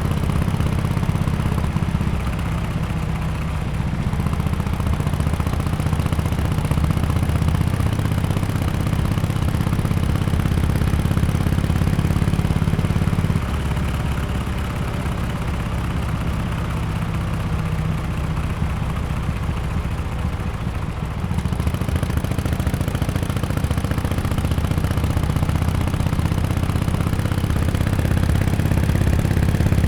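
Harley-Davidson XL1200X Forty-Eight's air-cooled 1200 cc V-twin running through an aftermarket exhaust, a deep, steady low rumble. The note eases off about two seconds in and again about halfway, then picks up after about twenty seconds as the throttle changes.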